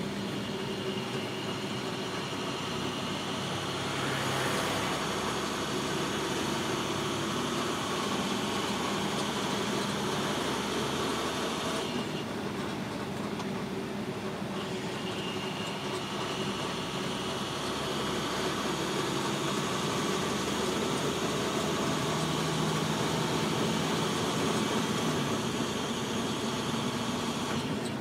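Steady engine and road noise of a car being driven, with a continuous drone and no sudden events.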